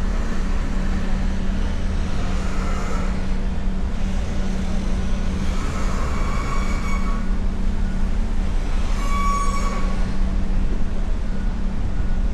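Steady low hum of vehicle engines running, with two brief high-pitched squeals, one about halfway through and one a few seconds later.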